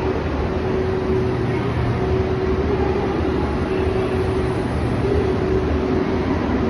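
Train noise: a steady low rumble with a held hum that breaks off briefly a few times.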